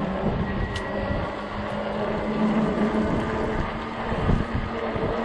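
Fat-tire e-bike riding uphill: wind rushing and buffeting on the microphone over a steady drone from the bike's 48-volt motor and tires.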